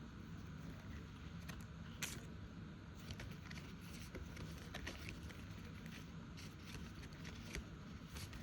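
Faint handling of budget cash envelopes: soft rustling with a few light clicks and taps as they are sorted into order.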